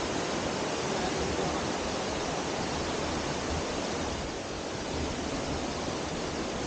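Water rushing steadily down a tiered waterfall.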